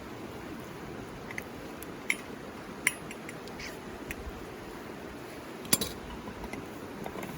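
Bamboo burning in a campfire, crackling with a few sharp pops (three loud ones, about two, three and six seconds in), over the steady rush of a river.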